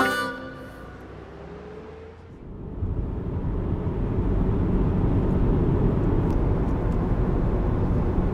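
A car driving, with a steady low road rumble that comes in about two and a half seconds in, after a brief quieter stretch.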